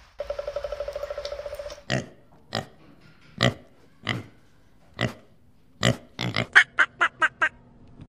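A rapid pulsing sound for the first couple of seconds. Then pigs grunt one at a time, about a second apart. Near the end a female mallard gives a quick run of about six quacks.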